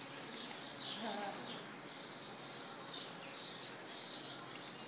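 Small birds chirping continuously, many high calls overlapping.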